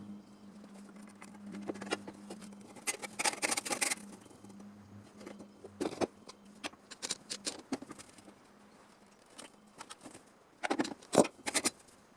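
Scattered light clicks, taps and scrapes in short clusters, from tools and metal pieces being handled during bodywork. A low steady hum fades out in the first few seconds.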